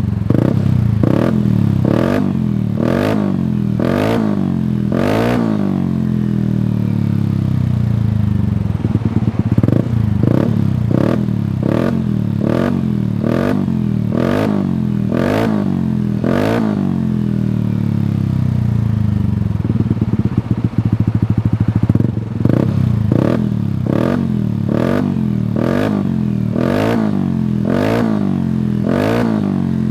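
Yamaha Aerox scooter engine running through a Shijiro MT GP Power racing exhaust, revved in quick throttle blips, each rising and falling back, in runs of a dozen or so, with two spells of idling between the runs.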